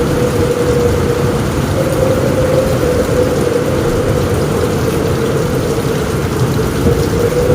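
Rain falling steadily on a roof, with a low rumble beneath it and a faint steady tone.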